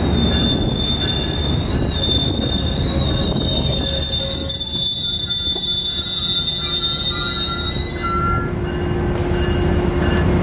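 Train passing at close range: a heavy, steady rumble under a high-pitched wheel squeal that holds steady and stops about eight seconds in.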